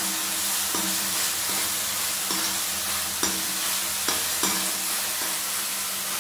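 Chopped tomatoes frying in ghee in a metal kadhai with a steady sizzle, stirred with a metal ladle that knocks and scrapes against the pan about once a second, each knock leaving a brief ring. The tomatoes have begun to soften.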